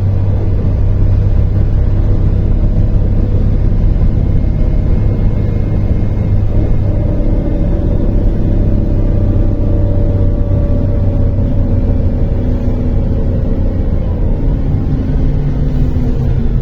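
MAZ-103 city bus driving, heard from inside the passenger cabin: a steady low engine rumble with drivetrain whines that slowly shift in pitch as the bus changes speed.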